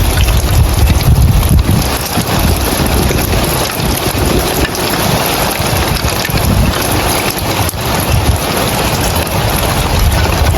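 Steady rain pattering on roof tiles, with scattered sharp drop ticks, over a dense hiss. Gusts of wind rumble on the microphone, rising and falling.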